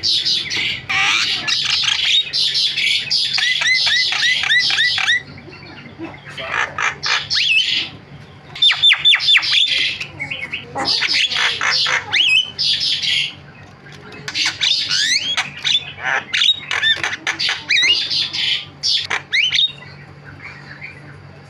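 Javan myna (jalak kebo) chattering in long, busy bouts of harsh squawks mixed with rapid rising whistles, broken by short pauses.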